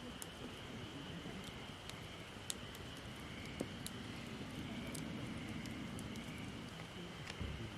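Wood campfire crackling, with sparse sharp pops and snaps, over a steady high-pitched drone.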